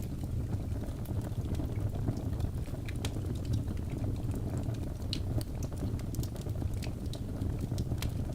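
Birch logs burning in a fireplace: a steady low rumble of flame with frequent small, irregular pops and crackles.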